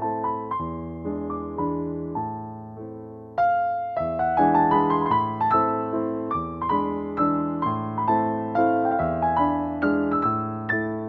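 Background piano music: a slow melody over chords, each note struck and then fading, with a new phrase starting about three and a half seconds in.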